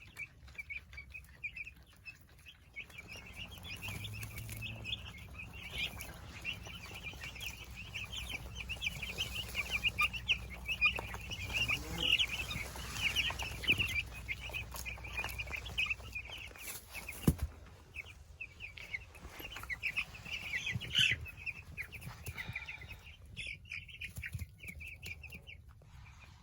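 A brood of twelve-day-old meat chicks peeping, many rapid high chirps overlapping. A low rumble runs beneath through the first half, and there is a single sharp knock about seventeen seconds in.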